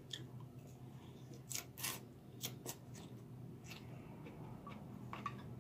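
Faint chewing of a mouthful of sushi bowl, heard as a scattering of short, soft mouth clicks and crunches about once a second.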